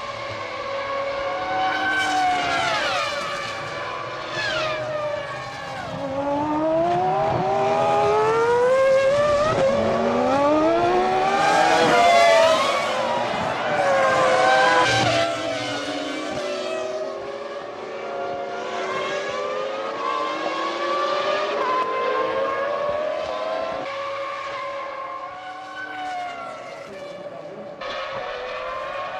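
Formula One cars' 3.0-litre V10 engines at racing speed, their pitch climbing and dropping as they accelerate, change gear and slow, with several cars overlapping and passing. The sound is loudest in the middle, and the engine note changes abruptly near the end.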